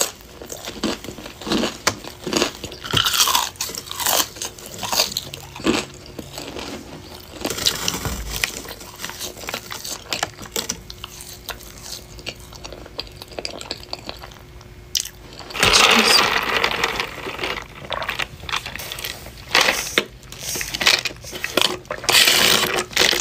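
Close-up crunching and chewing of breaded fried chicken wings, with many short crisp crackles. A louder, longer stretch of noise comes about two-thirds of the way through.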